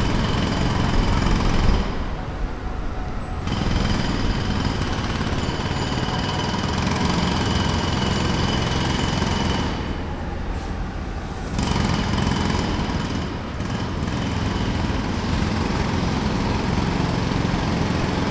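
Jackhammer hammering rapidly at pavement in long bursts. It stops briefly about two seconds in and again about ten seconds in, while a low engine rumble keeps running underneath.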